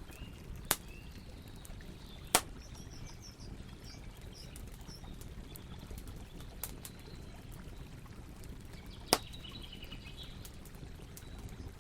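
Campfire burning with a steady low rumble, crackling with scattered small snaps and three sharp, loud pops, about 1, 2.5 and 9 seconds in.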